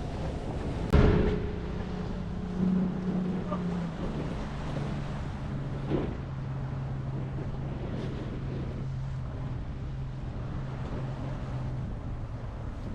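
A boat motor running steadily under wind noise on the microphone and the wash of waves, its pitch dropping a step about four seconds in. A sharp thump comes about a second in, and a lighter knock about six seconds in.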